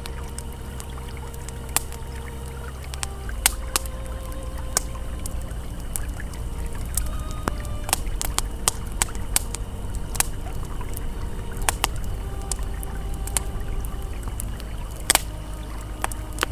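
Campfire crackling, with sharp irregular pops and snaps, over the steady rush of a flowing river. Faint held ambient music tones sit underneath.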